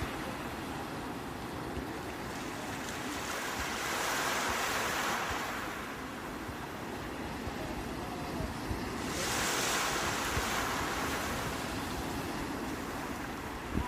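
Sea waves washing onto the shore, with two waves swelling up and breaking, a few seconds apart, over a steady surf wash.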